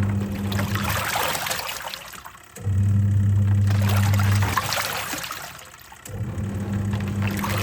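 Twin-tub washing machine on its wash cycle: the wash motor hums in spells of about two seconds, stops, and starts again as the pulsator churns the laundry back and forth. Water sloshes throughout.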